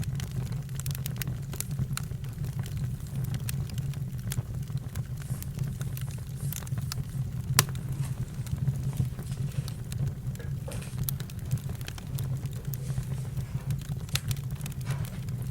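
Campfire crackling and popping over a steady low rumble, with one sharper pop about halfway through.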